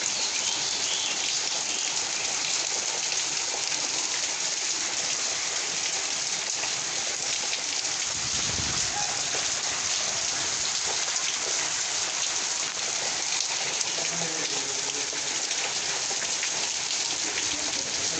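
Heavy rain of a kalbaishakhi (nor'wester) storm falling steadily, a dense patter of drops on surfaces. A brief low rumble comes about halfway through.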